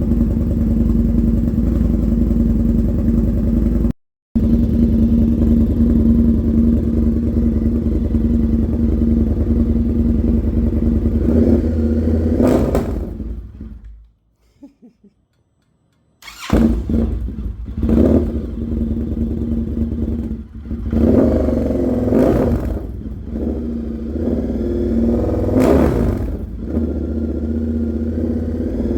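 Indian FTR 1200's V-twin engine through an aftermarket Toce exhaust on a fresh Lloydz tune, idling steadily, then revved in a series of short throttle blips. Near the middle the sound falls away into a moment of near silence before the engine picks up again.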